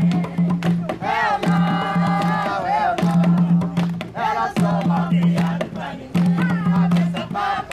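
Voices singing a jongo song together over steady hand drumming, with a deep drum tone pulsing underneath.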